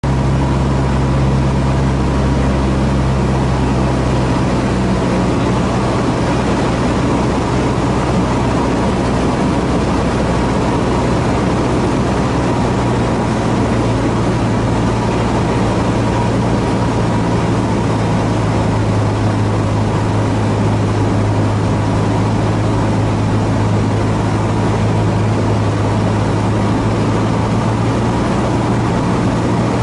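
Cessna 150H's four-cylinder Continental O-200 engine and propeller droning steadily in flight, the engine note dropping slightly lower about halfway through.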